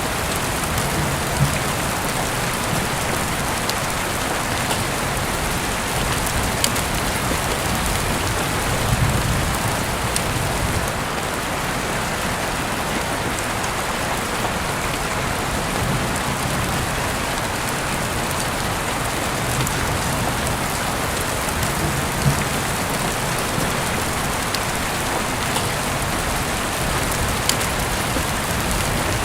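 Heavy rain falling steadily, heard through an open window, with a dense even hiss and scattered sharp ticks of single drops.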